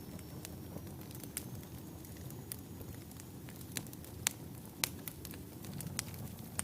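Wood fire burning in a fireplace: a steady low rumble of flames with scattered sharp crackles and pops, the loudest two about four and five seconds in.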